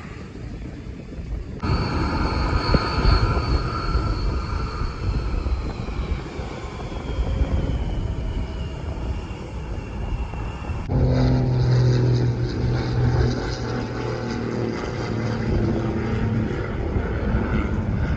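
Airplane engine noise with wind rumble on the microphone. After an abrupt start, a high whine slowly falls in pitch as the aircraft passes; after a sudden cut, a steadier low drone with a humming tone takes over.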